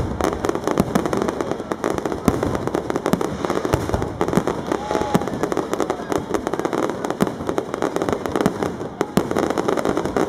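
Aerial fireworks display: a dense, unbroken run of bangs and crackling from bursting shells, many reports a second with no pause.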